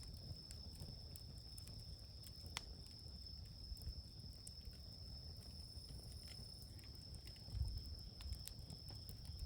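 Faint campsite ambience: a steady high-pitched insect trill over a low rumble, with scattered sharp clicks and crackles, the sharpest about two and a half seconds in, typical of a wood campfire.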